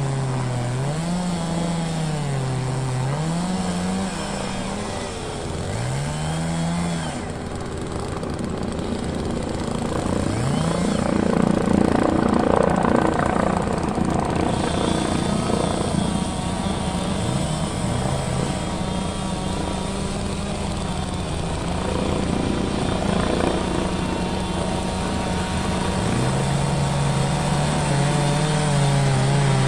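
Holzfforma two-stroke chainsaw running and cutting wood, its engine note repeatedly revving up and dropping as the throttle is worked and the chain loads in the cut. It is loudest and roughest about ten to fourteen seconds in.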